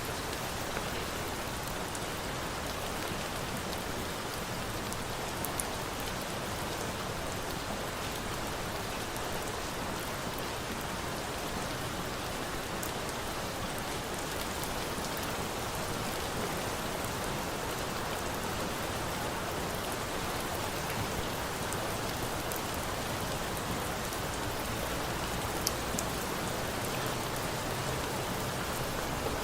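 Steady rain falling in an even hiss, with a few sharp ticks now and then.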